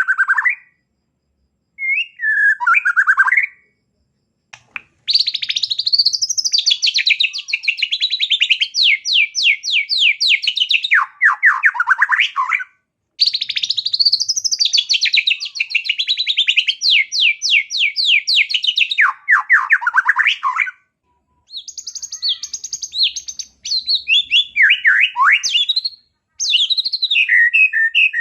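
White-rumped shama singing in long phrases of fast, rattling trills, several seconds each with short pauses between, as it runs through imitations of small birds' calls.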